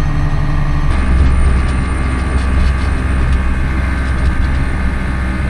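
Farm tractor engine running steadily, its low hum growing louder about a second in.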